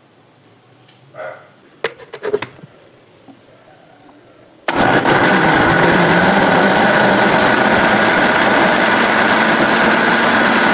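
A few light clicks and knocks, then a Mondial countertop blender's motor switches on abruptly about halfway through and runs steadily at high speed, blending corn cake batter.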